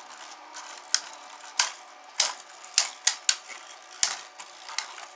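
Spinning Beyblade tops, Stronghold Onslaught and Rage Longinus, clashing in a plastic stadium: sharp, irregularly spaced clacks, about eight in all.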